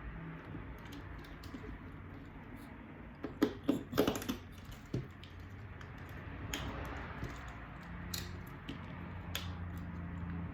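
Scattered small clicks and taps from small parts being handled during a repair, with a quick cluster of clicks a little past three seconds in, over a steady low hum.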